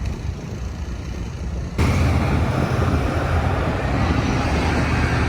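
Steady low rumble of outdoor noise with a motor-vehicle hum, which jumps abruptly louder about two seconds in.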